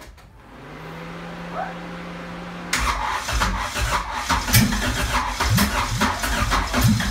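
Honda B20 VTEC engine being cranked: a steady hum for about two seconds, then it turns over and sputters unevenly, firing in fits without catching. The owner blames the distributor, a non-VTEC unit whose position he has just adjusted.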